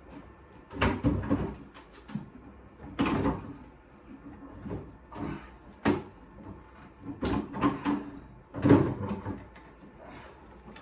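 Clunks, knocks and rattles of metal being handled as an old gas boiler is taken off its wall bracket, about six separate bangs with quieter scrapes between them.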